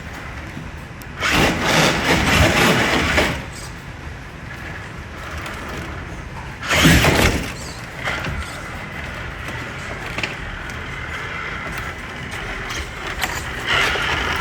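RC rock crawler driving over the course in two spurts, a longer one about a second in and a short one midway, with motor, gear and tyre-scrabbling noise.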